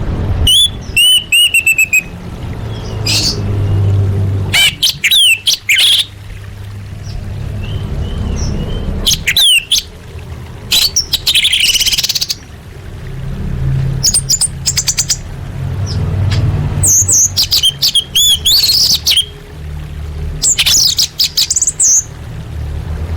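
Orange-headed thrush singing: a run of varied song phrases of whistled notes and rapid trills, a second or two apart, over a steady low hum.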